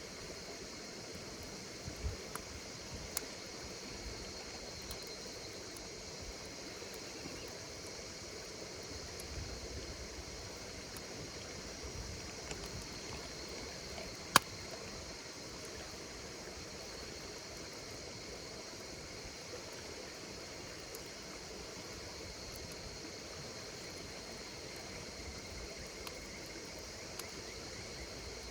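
Campfire burning with a steady hiss and scattered crackles, one sharp pop about halfway through standing out as the loudest sound, over a steady chirring of insects.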